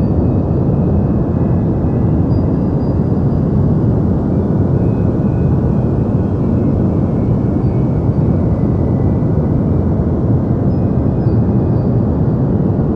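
Steady, unchanging deep noise: a continuous low rushing hiss with little treble, a synthetic 'deep white noise' sleep sound.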